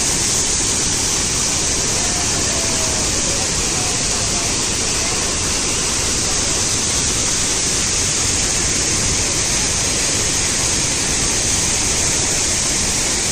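Waterfall with a steady, loud rush of falling water.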